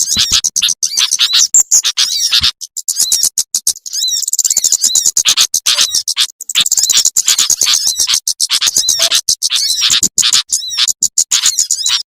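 Recorded calls of small songbirds played as a hunting lure: a dense, rapid run of high-pitched chirps and trills, many short notes a second, with a couple of brief pauses.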